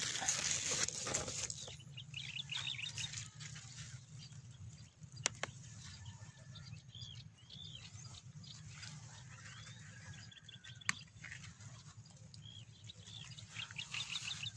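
Small birds chirping in short, repeated calls over a steady low hum, with a rustle of leaves about the first second and two sharp clicks, one about five seconds in and one near eleven seconds.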